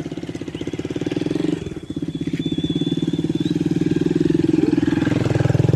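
An engine running close by, a rapid, even putter. It drops briefly about a second and a half in, then comes back and grows louder toward the end.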